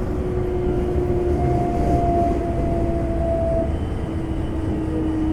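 Hitachi GTO VVVF inverter of a Semboku 5000 series electric train, heard inside the car: its whine slowly falls in pitch over a steady wheel-and-rail rumble as the train brakes for a station.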